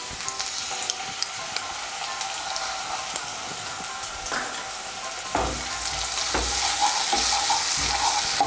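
Onions and ginger paste sizzling in hot mustard oil in a non-stick kadai, a steady crackling hiss. From about five seconds in, a spatula stirring through the pan adds uneven soft thumps, and the sizzle grows a little louder.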